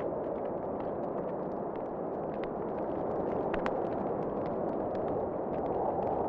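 Wood fire crackling with irregular sharp pops and snaps, over a steady rushing wind.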